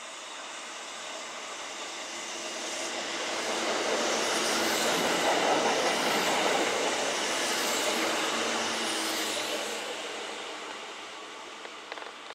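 Kintetsu electric train passing through the station: its running noise builds to a peak around the middle and fades away, with a few sharp clicks near the end.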